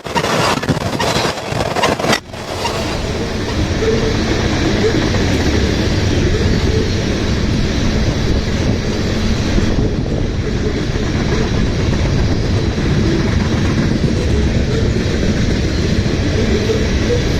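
CSX freight train rolling past, the cars' wheels clattering on the rails, settling into a steady rumble after about two seconds.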